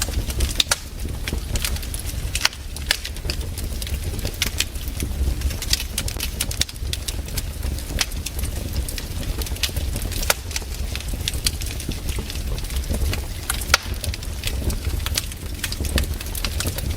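Wood campfire crackling, with irregular sharp pops and snaps, several a second, over a steady low rumble.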